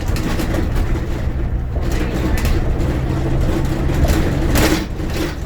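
Bus engine and tyre noise heard from inside the moving bus: a steady low drone, with a brief louder rush of noise a little before the end.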